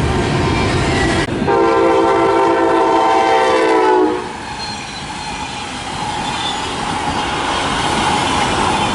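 A train running past with steady wheel and rail noise; about a second in, a locomotive air horn sounds one blast of several notes together, lasting about two and a half seconds.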